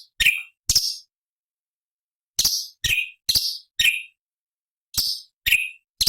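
Cucak cungkok (a leafbird) giving sharp, short chirps that each drop from a high note to a lower one, about nine calls in clusters of two, four and three with brief pauses between.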